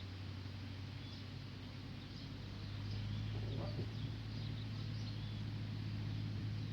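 Seat Ibiza 6K's 1.6-litre four-cylinder petrol engine idling steadily through its exhaust, a low even hum that gets a little louder about three seconds in. Faint bird chirps sound in the background.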